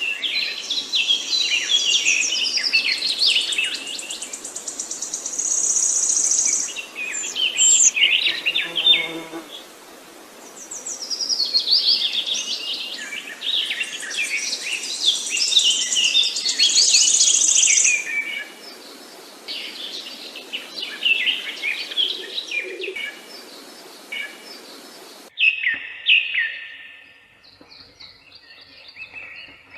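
Several songbirds singing over one another, in fast chirps and trills. A steady hiss runs behind them and cuts off suddenly about 25 seconds in, and quieter song carries on after it.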